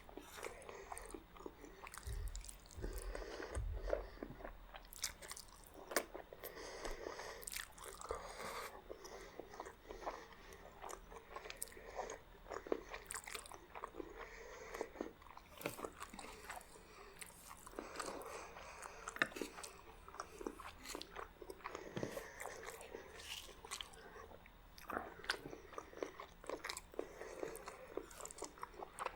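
Close-miked eating sounds of a meal of meat spaghetti and garlic bread: steady chewing and biting, with many irregular sharp clicks and wet mouth noises.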